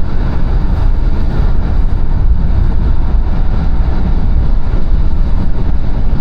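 A moving car's road and engine noise: a steady, loud low rumble.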